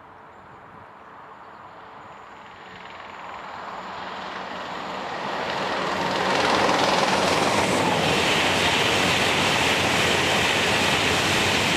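InterCity 225 electric express train (Class 91 set in Sky 1 HD livery) approaching and passing at speed: a rushing of wheels on rail and air that builds over several seconds, then holds loud and steady as the coaches go by.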